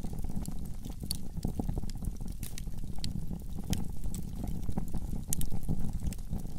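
Wood fire burning in a fireplace: a steady low rumble of flames with irregular sharp crackles and pops, a louder pop about five seconds in.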